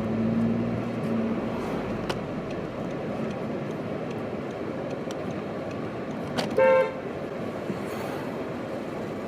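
Steady street traffic noise with one short car horn toot about six and a half seconds in.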